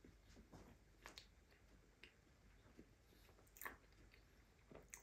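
Faint close-up mouth sounds of a person chewing a soft carrot cupcake with cream cheese icing: irregular wet smacks and clicks, the loudest about three and a half seconds in.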